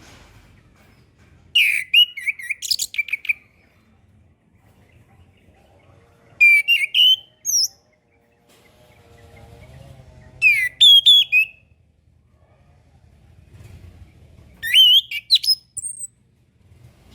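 Chestnut-capped thrush (anis kembang) singing: four short whistled phrases of quick rising and falling notes, each about a second long and a few seconds apart, over a faint low hum.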